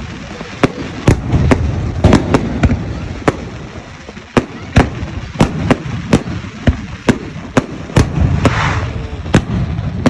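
Fireworks going off in a rapid, irregular string of sharp bangs, about two a second, over a low rumbling background, with a brief hiss about eight and a half seconds in.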